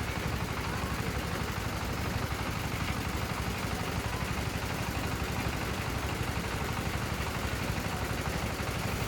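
An engine running steadily, a constant low rumble with fast even pulsing.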